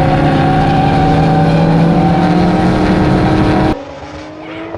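Car engine running hard at high, nearly steady revs. About three and a half seconds in it cuts off abruptly, replaced by a quieter engine accelerating, its pitch rising.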